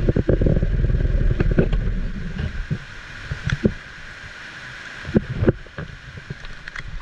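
Heavy rain hissing steadily over a flooded street. A loud low rumble fades out after about two and a half seconds, and a few sharp knocks or spatters come about five seconds in.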